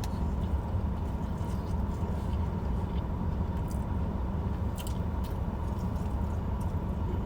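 Faint chewing with a few small crunches as fried chicken wings are eaten, over a steady low rumble.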